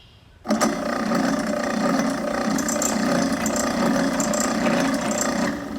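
Drill press running, its bit chattering as it drills through a steel plate; it starts about half a second in and eases off just before the end.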